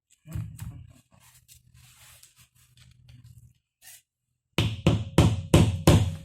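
A low rumbling noise for the first few seconds, then about six heavy knocks in quick succession near the end: hammer blows on the GAZelle steering gearbox during its disassembly.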